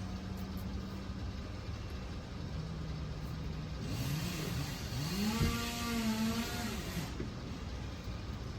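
Chainsaw engine running, throttled up about five seconds in so that its pitch rises quickly, holds high for a couple of seconds, then drops back.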